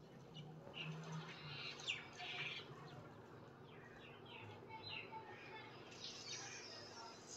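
Faint chirping of small birds, a quick run of short calls in the first few seconds and more near the end, over a low steady hum.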